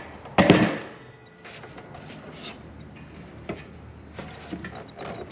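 Ryobi table saw being tipped over onto its back on a work surface: a loud clunk about half a second in, then quieter scraping and light knocks as it is shifted into place.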